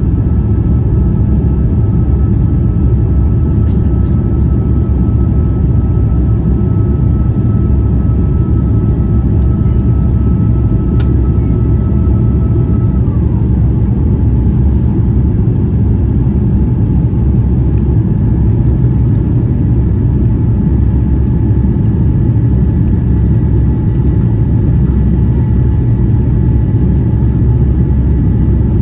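Airbus A350-900 cabin noise: a loud, steady roar from the Rolls-Royce Trent XWB engines and airflow. Faint engine tones run above it and step down in pitch about 13 seconds in.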